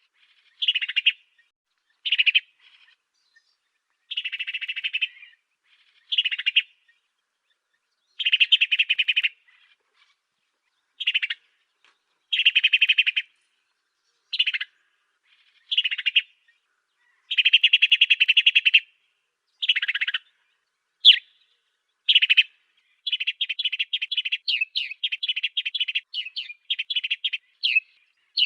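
Song of the cage bird known in Indonesia as the burung gereja afrika ('African sparrow'): rapid trilled phrases of about a second each, separated by short pauses, giving way near the end to a quick run of short sharp chirps.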